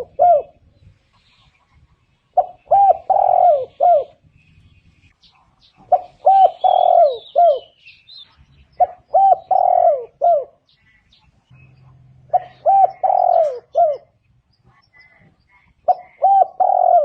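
Spotted dove cooing: a short phrase of four or five quick coos, repeated about every three and a half seconds. Faint higher chirps of another small bird come in around the middle.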